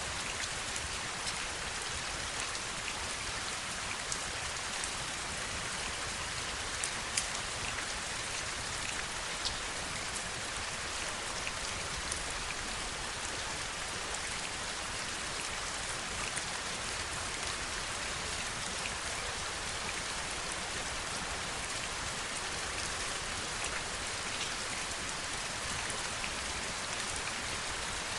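Steady heavy rain, with single close drops ticking sharply now and then, the clearest about seven and nine seconds in.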